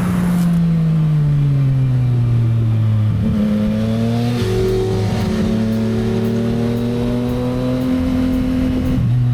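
Motorcycle engine running while riding, its pitch falling over the first three seconds as the bike slows, then holding nearly steady with a slight rise toward the end.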